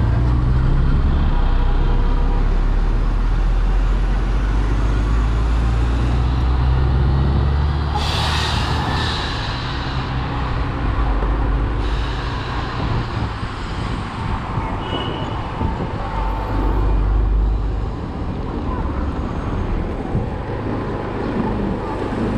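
City traffic heard from a moving motorcycle: a steady low rumble with road noise, and a brief loud hiss about eight seconds in.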